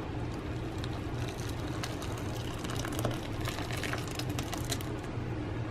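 Hot dogs crackling in a frying pan, with faint scattered clicks as they are lifted out, over a steady low hum.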